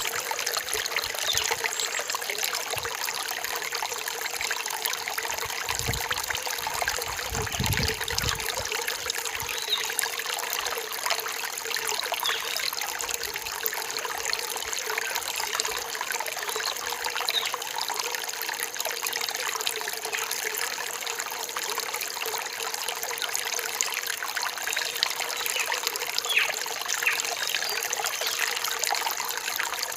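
Rain-forest stream trickling and splashing steadily over rocks, with a brief low rumble about six to eight seconds in.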